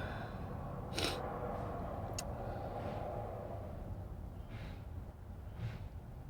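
A sharp knock about a second in, then a lighter click, over a steady low background rumble, followed by a few soft breaths.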